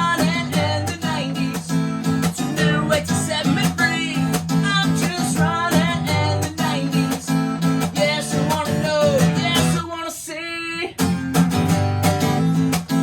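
Acoustic guitar music in the style of eurobeat: steady strummed chords under a bending melody line. The low chords drop out for about a second near ten seconds in, then come back.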